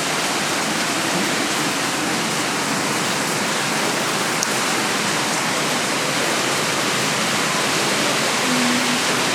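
Heavy rain pouring steadily, an even, dense hiss of falling water.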